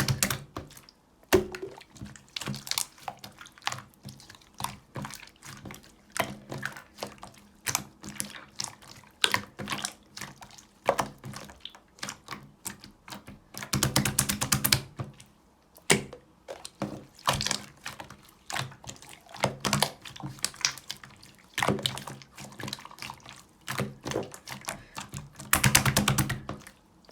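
Yellow clear slime being worked by hand: a run of sticky wet clicks and pops, with longer crackling stretches about halfway through and again near the end.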